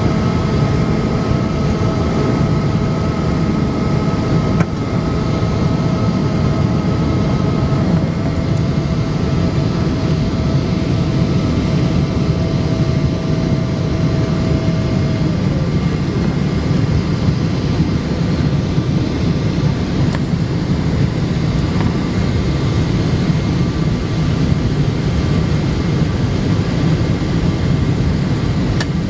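Cabin noise inside a Boeing 777-200 airliner in flight: a steady low roar of airflow and engines, with a thin engine whine that shifts lower about halfway through.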